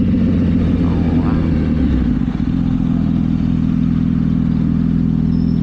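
Yamaha R1 sport bike's inline-four engine running at a steady pitch, with road and wind noise above it.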